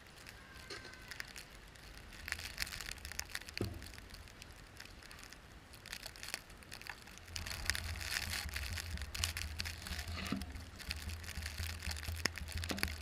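Vehicle driving through snow: a low rumble that grows louder about halfway through, under constant crackling and crunching.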